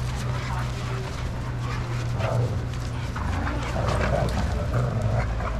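Dogs playing together, giving short vocal sounds at irregular moments over a steady low hum.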